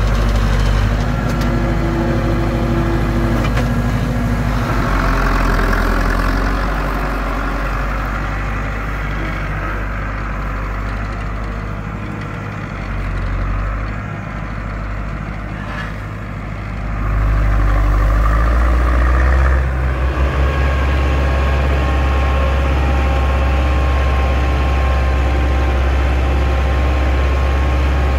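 Zetor 6245 tractor's four-cylinder diesel engine running steadily while pulling a three-furrow reversible plough. It gets somewhat quieter for several seconds midway, then rises louder again about seventeen seconds in.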